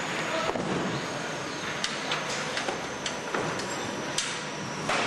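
Caravan assembly hall ambience: a steady din of work with scattered clicks and knocks from tools and parts being handled.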